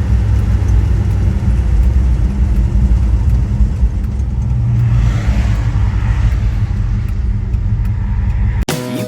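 The 1970 Plymouth Road Runner's 383 Magnum cast-iron V8 running with a steady low rumble, swelling somewhat about five seconds in. It cuts off abruptly near the end as music begins.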